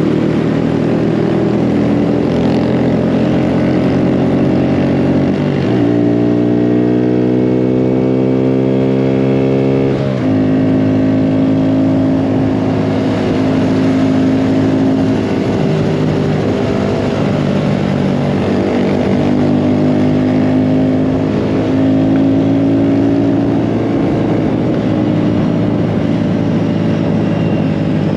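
Mini bike engine running hard close to the microphone. Its pitch dips about five seconds in, climbs steadily for about four seconds, drops sharply, then holds fairly steady with small rises and falls.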